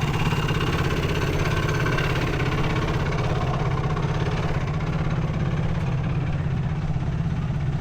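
450 cc single-cylinder sport quad engine idling steadily.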